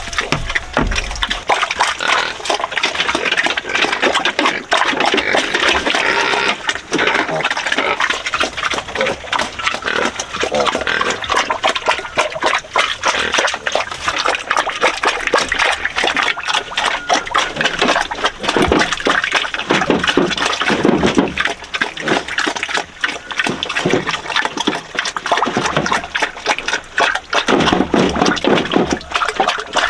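Pigs grunting and squealing, with water running steadily underneath.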